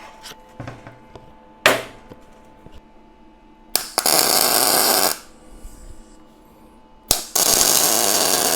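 Small clicks and a sharp metal knock, then two welding-arc tack welds on steel plate, each a steady loud crackle lasting just over a second. The first starts about four seconds in, the second near the end.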